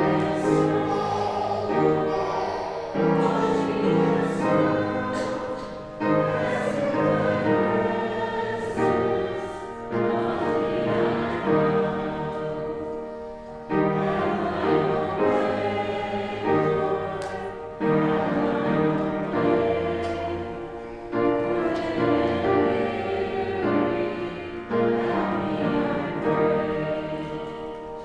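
Congregation singing a hymn with instrumental accompaniment, in phrases of a few seconds each.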